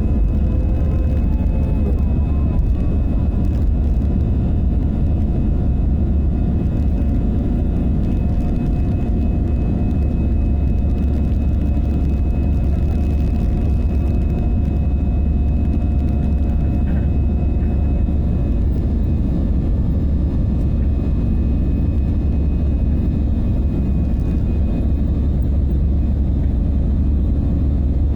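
Old airplane's engines and cabin during takeoff, heard from inside: a loud, steady low rumble with thin whining tones over it that fade out past the middle.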